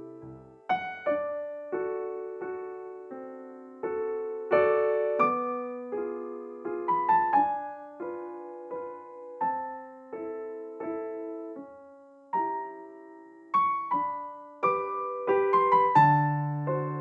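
Gentle solo piano background music, with chords struck every half-second or so, each fading away before the next.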